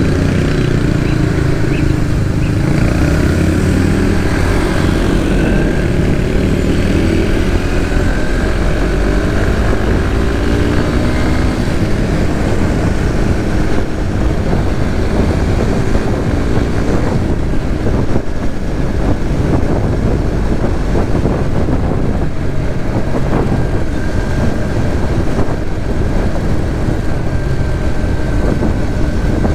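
Suzuki GSX-S150's single-cylinder engine heard from the rider's seat while riding, its pitch rising twice in the first half as it accelerates through the gears, then running steadily with wind and road noise.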